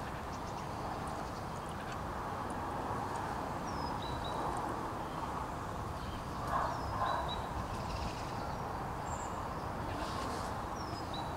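Steady outdoor background noise with a bird giving a short, high, downward-gliding chirp three times. Two brief louder sounds come a little past the middle.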